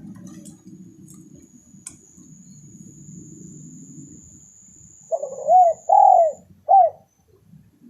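Spotted dove (tekukur) cooing: three arched coo notes in quick succession starting about five seconds in, the last one short.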